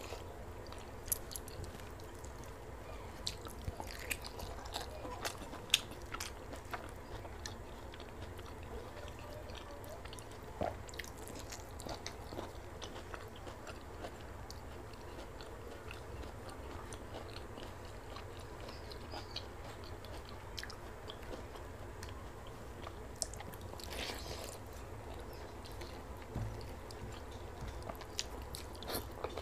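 Close-up mouth sounds of a person eating watered rice by hand: chewing with scattered small clicks and occasional crunches, over a steady low hum.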